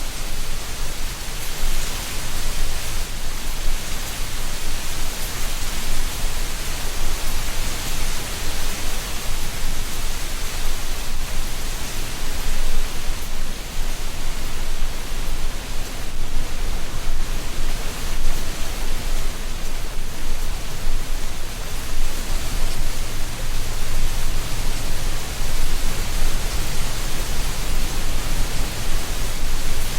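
Wind blowing through a tree canopy, rustling dry autumn leaves: a steady hiss that swells and eases a little from moment to moment.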